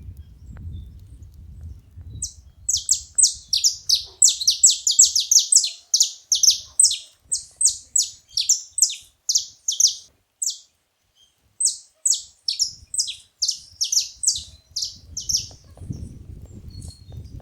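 Saffron finch singing: a long run of quick, high, downward-sliding notes, several a second, breaking off briefly about two-thirds of the way through and then going on.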